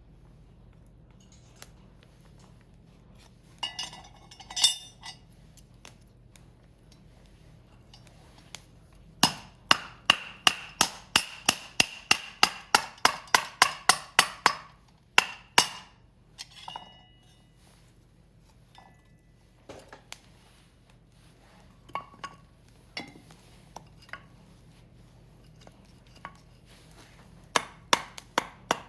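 Sharp clinking strikes, as of metal tapping on metal: a quick steady run of about four or five a second for several seconds in the middle, with shorter clusters before and near the end.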